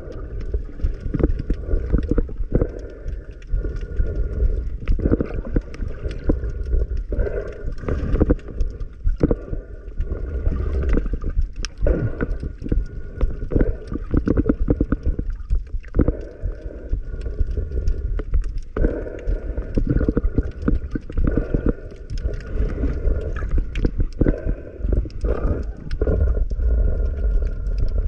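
Muffled underwater noise heard through a waterproofed camera while diving: a low churning water rumble full of small clicks and knocks, with a faint steady hum behind it.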